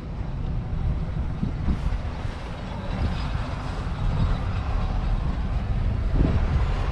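1942 AEC Matador's 7.7-litre six-cylinder diesel engine running, a deep sound made of rapid, even firing beats.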